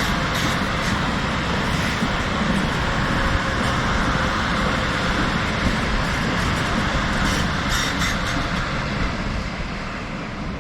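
A train passing on the line: a steady rush of wheel and rail noise with a few clicks, starting to fade near the end.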